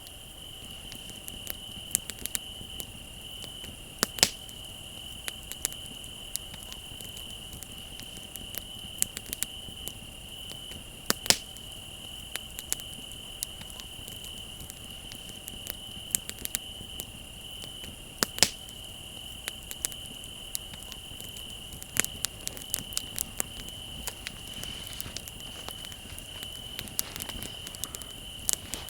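Wood fire crackling with scattered sharp pops, a few of them louder, over the steady high trill of crickets.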